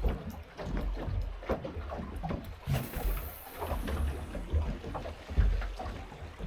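Wind rumbling on the microphone and water slapping against a small boat's hull, with irregular small knocks.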